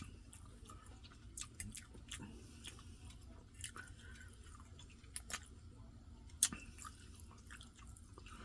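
Faint chewing of someone eating rice and gravy, with scattered small mouth clicks and one louder click about six and a half seconds in.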